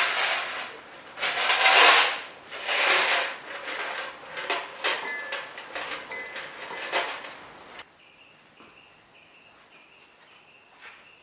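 Painting supplies being handled and set out: rustling and clattering with sharp clicks and a few light clinks, which stop abruptly about eight seconds in. After that, a faint bird chirp repeats steadily in the background.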